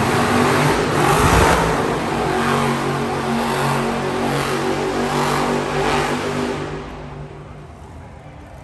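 Monster truck engine running and revving, with repeated surges, then fading away about seven seconds in.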